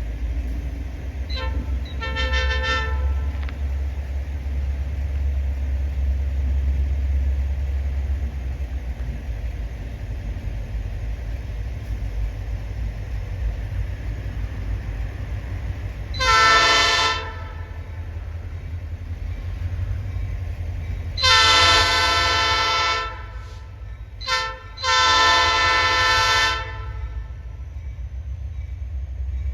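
Diesel locomotives of a passing train, a steady low engine rumble under the whole passage. The lead locomotive's air horn gives two faint short notes about a second in, then sounds loudly in the second half: long, long, short, long, the pattern of a grade-crossing signal.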